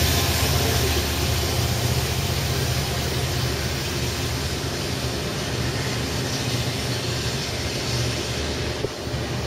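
Israel Railways diesel-hauled passenger train of double-deck coaches moving slowly past, with a steady low diesel engine drone that eases a little toward the end.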